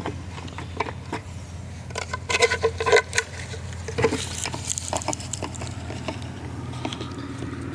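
Light metallic clinks, knocks and scrapes of hard objects being handled, bunched a couple of seconds in and again around the middle, over a steady low hum.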